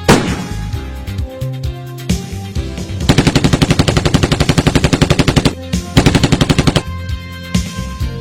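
Machine-gun fire: a single loud shot at the start, then two long bursts of rapid fire, about ten shots a second, over background music.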